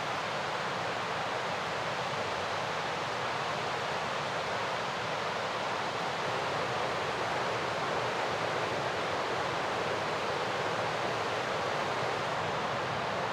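A fast mountain river rushing, a steady, unbroken noise of moving water.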